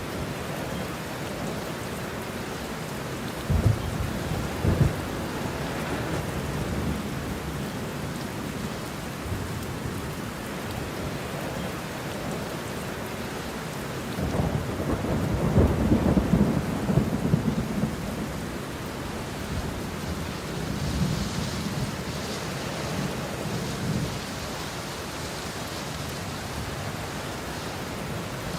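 Steady rain with thunder. There are two sharp claps a few seconds in and a longer rolling rumble near the middle.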